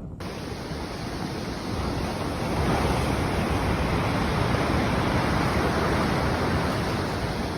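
Steady rushing roar of a storm: wind and pelting noise that starts abruptly and builds over about two seconds, then holds.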